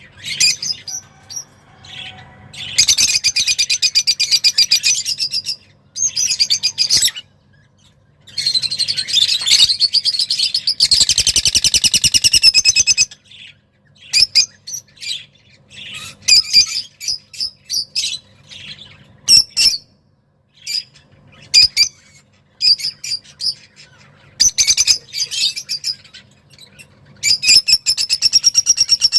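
A small songbird, an agitated 'roz' cage bird, singing loudly in fast trilling phrases. Long rapid trills alternate with short clipped bursts of notes and brief pauses.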